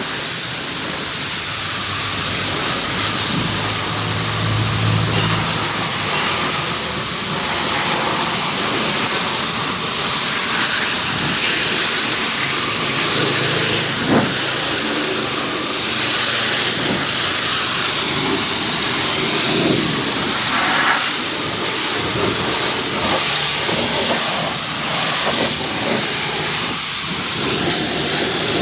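Pressure washer spraying a high-pressure water jet onto a truck, a steady loud hiss that shifts slightly as the spray moves over the body.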